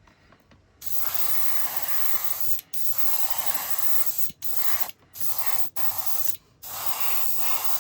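Spray paint hissing out of a nozzle in six bursts of a second or so each, the first and longest starting about a second in.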